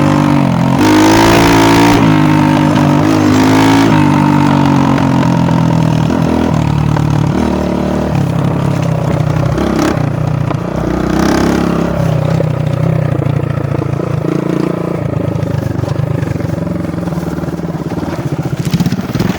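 Dirt bike engine running, its pitch rising and falling with the throttle for the first few seconds, then holding steadier.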